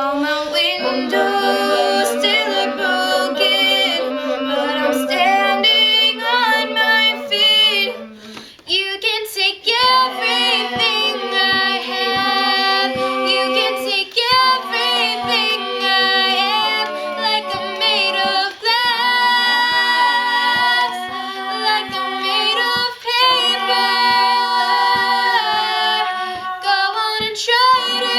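Six-voice female a cappella group singing in close harmony: a lead melody over sustained backing chords, with no instruments. The singing breaks off briefly about eight seconds in.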